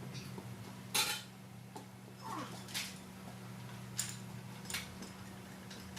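Metal tools clinking against each other and against metal parts, four or so sharp clinks with the loudest about a second in, over a steady low hum.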